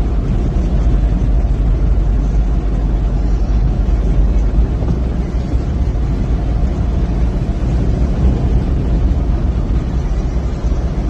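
Ford Ranger pickup driving: a loud, steady low rumble of engine and road noise.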